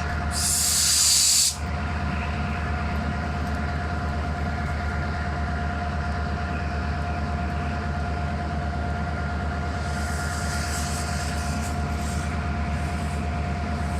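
Stopped passenger train idling with a steady low pulsing hum and a steady whine. A loud hiss lasting about a second sounds near the start, and a fainter hiss returns near the end.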